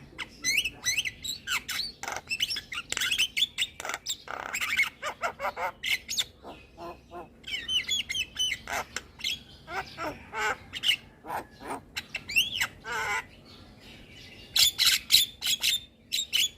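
Javan myna (jalak kebo) singing a varied, busy song of harsh squawks, bending whistles and rapid clicking notes, with a dense burst of clicks near the end.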